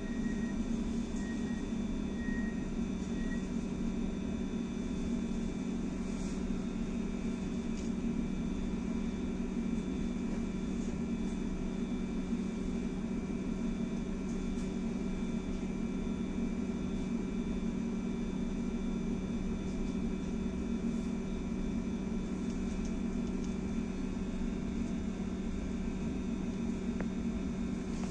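Steady hum inside a BKM-43300D trolleybus: its electrical equipment and running noise at an even pitch. A few short, high beeps sound in the first few seconds.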